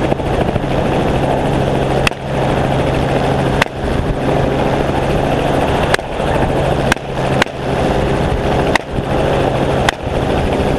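Helicopter running steadily in flight, with about seven sharp cracks at irregular intervals, rifle shots fired from the helicopter at a running animal.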